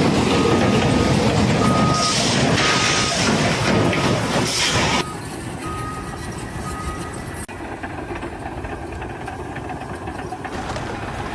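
Vehicle reversing alarm beeping about once a second over loud engine and machinery noise, which drops away sharply about five seconds in; the beeping stops about seven seconds in.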